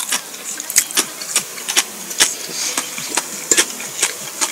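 A person chewing food close to the microphone: irregular wet mouth clicks and smacks, about two or three a second.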